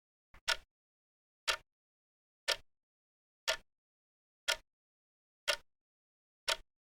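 Ticking sound effect from a countdown timer: one short, sharp tick every second, with dead silence between ticks. A faint extra click falls just before the first tick.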